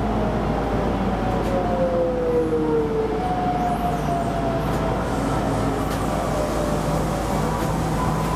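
Keisei Line electric train running on the track, a steady rumble with a motor whine that slides down in pitch during the first few seconds.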